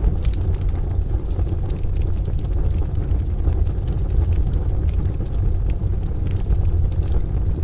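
Rain-and-thunder ambience with a steady deep rumble, overlaid by scattered sharp crackles and pops from a wood-burning stove.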